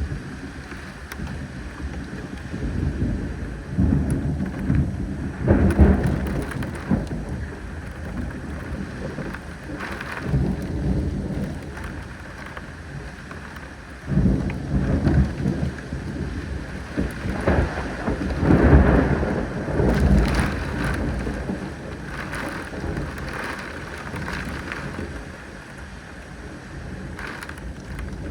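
Thunder rumbling in several rolls over steady rain, with the loudest rolls in the middle of the stretch.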